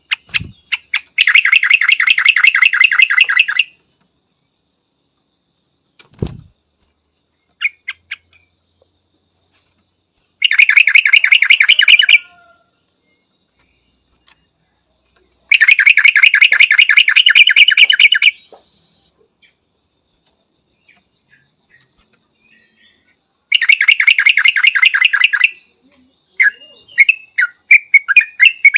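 Yellow-vented bulbul calling in four bursts of rapid repeated notes, each two to three seconds long with quiet gaps between, then a looser run of short chirps near the end. Two brief low thumps are heard early on.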